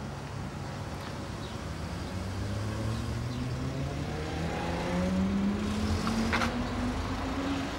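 Car engine heard from inside the cabin, accelerating with its pitch rising steadily, over road rumble, with a short knock about six seconds in.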